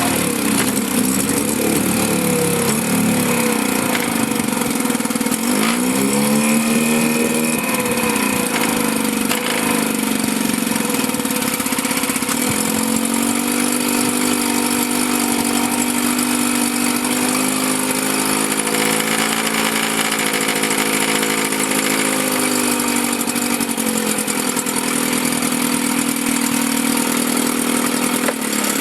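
1954 Johnson CD-10 5.5 hp two-stroke twin outboard running in a test barrel. The engine speed rises and falls several times as the throttle is worked.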